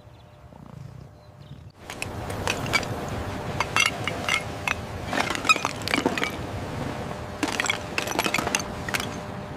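Clattering and clinking of debris, many small sharp knocks and glassy clinks over a steady rustling noise, starting about two seconds in after a quieter opening.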